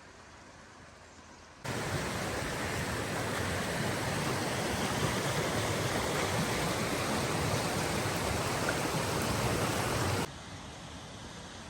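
Steady, even rush of water that starts suddenly about a second and a half in and cuts off sharply near the end, with a fainter water hiss before and after.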